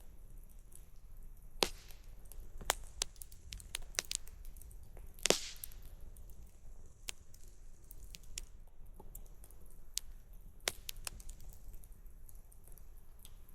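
Wood campfire crackling: irregular sharp pops and snaps, with two louder pops about a second and a half in and about five seconds in, over a low steady rumble.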